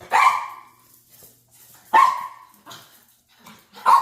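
Dog barking: three loud barks about two seconds apart, with softer sounds between them.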